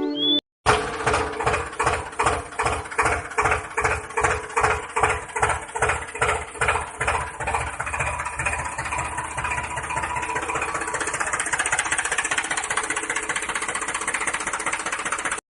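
Small motor of a DIY model tractor running with a regular pulsing beat, about two to three pulses a second. Over the second half the pulsing quickens and smooths into a steady run.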